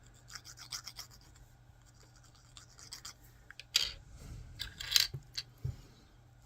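Small 3D-printed plastic parts and a glue bottle handled on a workbench: scattered light clicks and scraping rubs, with two louder scrapes near the middle and about five seconds in.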